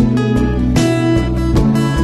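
Background music led by strummed guitar, with chords changing about every second.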